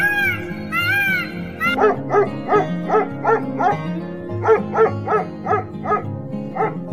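A peafowl gives two short arching cries, then dogs bark in a quick run of about three barks a second for some four seconds, over background music.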